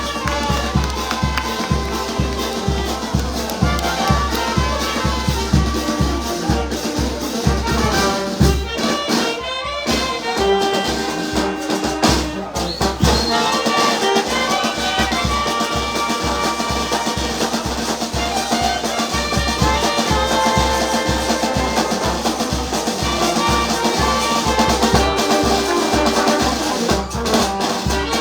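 Brass band music with trumpets and trombones over a steady bass drum beat; the beat drops out briefly twice midway.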